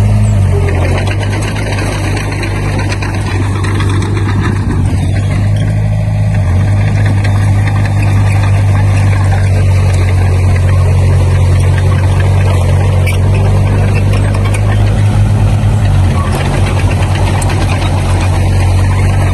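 Heavy-equipment diesel engine running loud and steady, its pitch shifting slightly a few times as the load changes, with a dense clattering noise over it.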